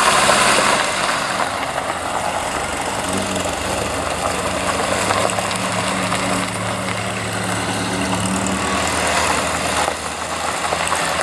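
A car engine idling close by, running steadily.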